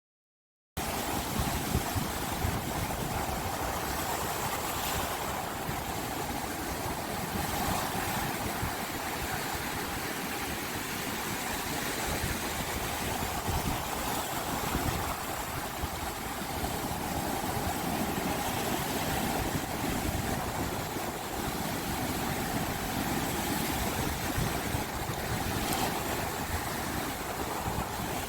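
A steady, even rushing noise, like running water, that starts abruptly about a second in and cuts off suddenly at the end.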